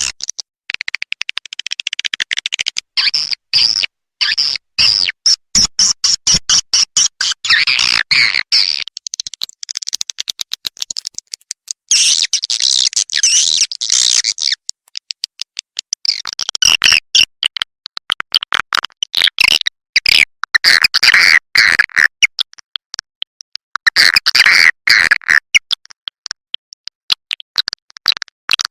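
Recorded call track of edible-nest swiftlets, used to lure swiftlets into a swiftlet house: dense runs of rapid chirps and clicks, broken by a few short pauses.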